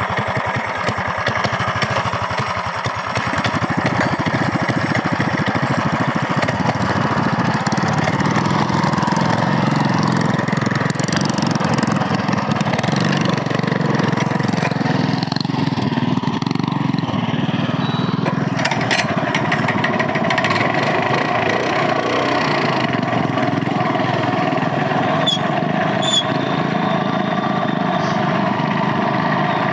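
Minibike engine running continuously under throttle, its note shifting about two-thirds of the way through.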